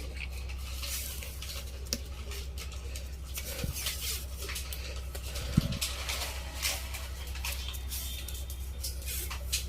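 Scattered light clicks and ticks of small parts being handled during hand work on a battery pack, over a steady low electrical hum.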